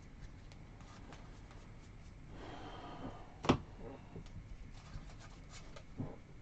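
Trading cards being handled and flipped through: soft clicks and slides of card stock, a short rustle about two and a half seconds in, and a sharp tap a second later.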